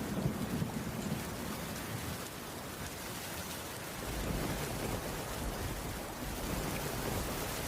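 Heavy rain pouring steadily, with a low rumble of thunder underneath that fades about two seconds in and rises again about four seconds in.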